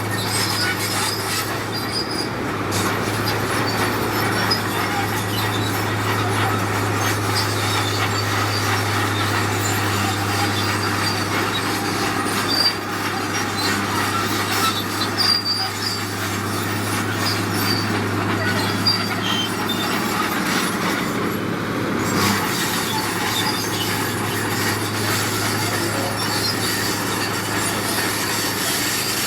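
Heavy diesel construction machinery running steadily under a constant low hum, with continuous grinding and squealing scrape and a few sharp knocks midway.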